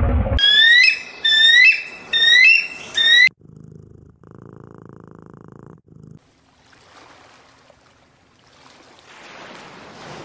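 Four loud, high calls in quick succession, each sliding down and then back up in pitch. Then a domestic cat purring for a few seconds, and faint surf and wind hiss building near the end.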